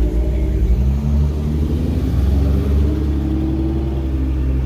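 Car engine and exhaust with a deep, steady rumble as a car drives off.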